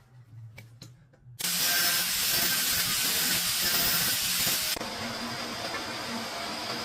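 A loud hiss of water spraying under pressure starts suddenly about a second and a half in. It holds steady, then drops to a quieter, continuing hiss near the five-second mark.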